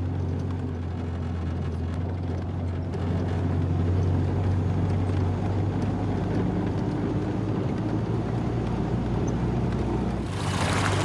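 Car engine running steadily with a low hum. About ten seconds in, a louder hiss comes in over it.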